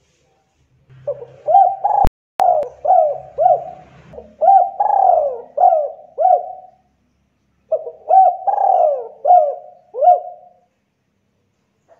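Spotted dove (tekukur) cooing: two runs of repeated low coos separated by a short pause. A single sharp click sounds about two seconds in.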